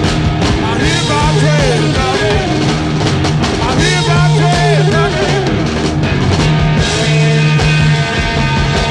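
Blues-rock band playing an instrumental passage: a lead line bending up and down in pitch over a steady low note.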